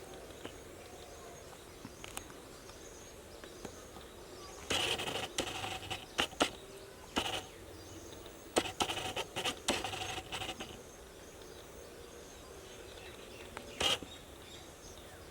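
Footsteps: irregular clusters of short, noisy steps between about five and eleven seconds in, and one more step near the end, over faint bird chirping.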